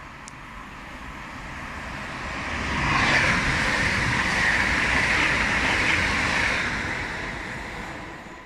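Lumo Class 803 electric express train passing through the station without stopping: a rushing noise of wheels on rail and air that builds, is loudest for about four seconds, then fades away.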